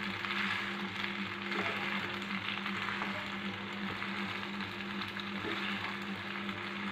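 Boiled macaroni and chopped vegetables frying in oil in a kadhai, a soft sizzle with light scraping as a spatula and spoon stir them, over a steady low hum.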